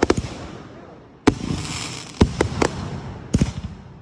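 Aerial fireworks exploding. Sharp bangs come about a second in and again a second later, each trailing off into crackle, with a quick run of smaller reports near the end.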